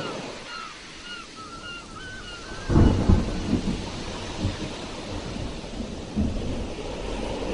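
Sea waves on a shore: a wave breaks with a sudden deep rumble a little under three seconds in, then washes in a steady rushing hiss. Before the break, a quick run of short high chirps repeats several times a second.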